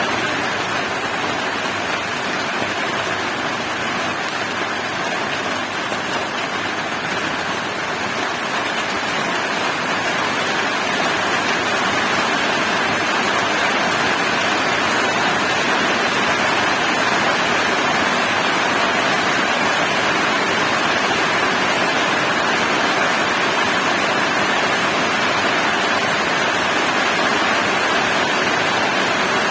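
Heavy rain falling in a steady hiss, growing a little louder about ten seconds in.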